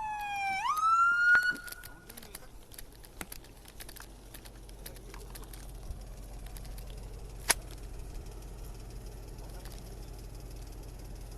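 Police car siren wailing: its pitch falls, then sweeps back up and cuts off about a second and a half in. A low steady rumble follows, with scattered faint clicks and one sharp click near the middle.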